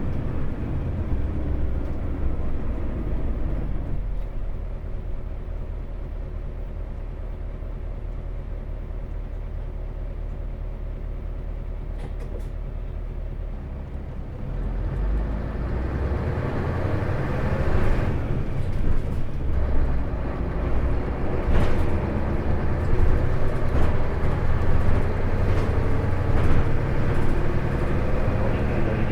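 Onboard recording of an Isuzu Erga city bus's diesel engine. It runs quietly for the first half, then about halfway through grows louder with a rising engine note as the bus accelerates, with knocks and rattles from the body.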